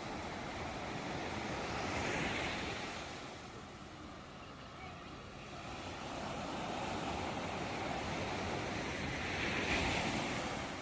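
Ocean surf: waves washing in and drawing back, with two surges, about two seconds in and near the end, and a lull between them.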